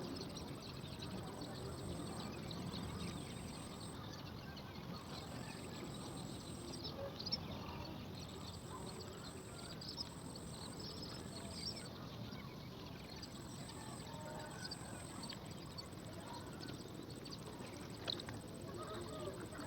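Insect chorus: a high, thin, steady trill that breaks off and starts again several times, over low background murmur, with scattered short faint chirps.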